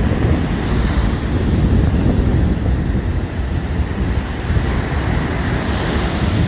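Wind buffeting the microphone in a steady low rumble, with a rushing hiss like surf that swells about a second in and again near the end.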